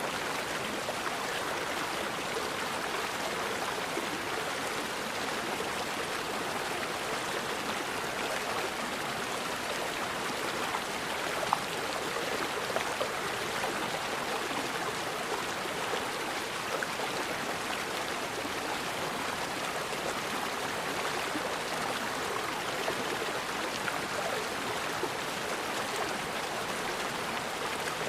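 Forest river water flowing steadily, an even rush with no let-up. A couple of brief, sharper clicks sound near the middle.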